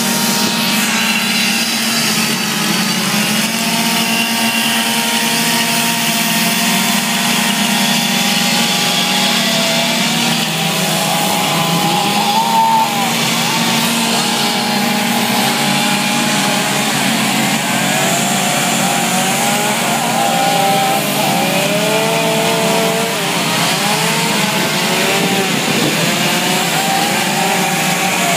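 Chainsaw running while carving wood. Its pitch holds steady at first, then from about ten seconds in repeatedly rises and falls as the throttle is worked and the chain bites into the wood.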